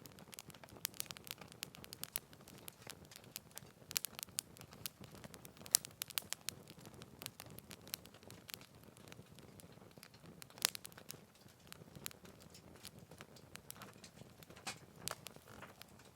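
Wood fire in a Picogrill 398 fire stand crackling, with irregular sharp pops and snaps over a soft low rush of flame; two pops, about 6 and 10 seconds in, stand out louder.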